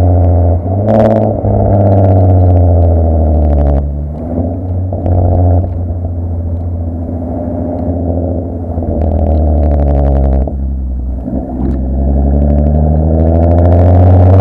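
Volkswagen Golf R32's 3.2-litre VR6 engine through a Milltek decat, non-resonated exhaust, running under load with a loud drone. There is a sharp crack about a second in. The note drops back around four seconds and again around ten seconds, then the revs climb near the end.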